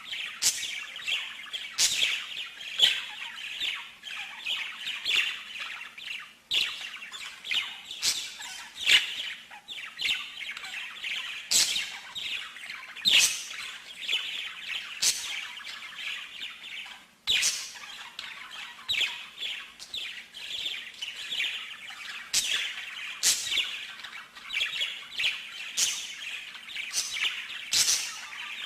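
Small birds chirping and twittering rapidly, with sharp, loud chirps every second or so over a dense chatter. A faint steady hum runs underneath.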